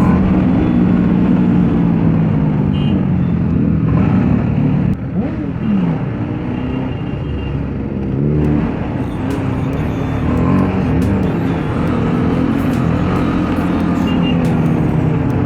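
Motorcycle engine running while riding, its pitch rising and falling in steps with throttle and gear changes, over a steady rush of noise.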